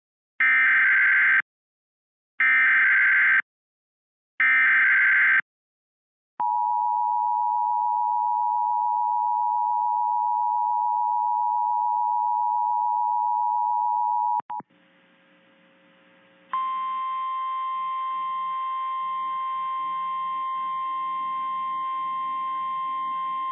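Emergency alert broadcast signals for a National Weather Service tornado warning: three one-second bursts of warbling digital header data about two seconds apart, then a steady single-pitch warning tone for about eight seconds. After a click and a short gap, a second steady high tone begins about sixteen seconds in.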